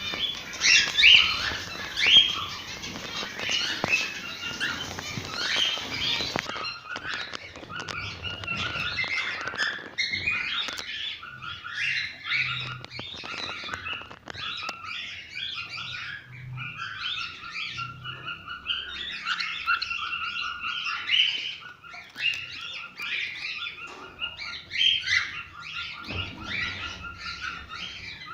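Cockatiels chirping and warbling in a dense, unbroken stream of short whistled phrases. This is the strong cockatiel song used to stimulate breeding. About six seconds in, the recording changes and the song settles into repeated warbling phrases.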